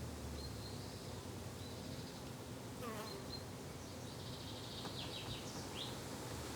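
Garden ambience: insects buzzing steadily, like bees or flies near the microphone, with a few short high bird chirps and one falling bird call about three seconds in.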